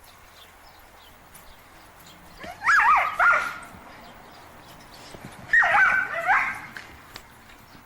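A dog giving two short bouts of high, wavering whines and yips, about three seconds apart.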